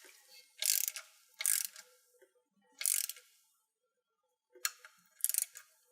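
Ratchet wrench clicking in about five short runs of strokes with pauses between, tightening an engine oil drain plug back into the sump.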